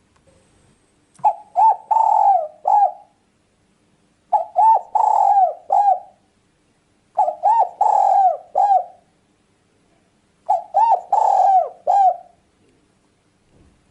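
Spotted dove (tekukur) cooing. Four alike phrases come about three seconds apart, each two short coos, then a longer rolling coo, then a short final one.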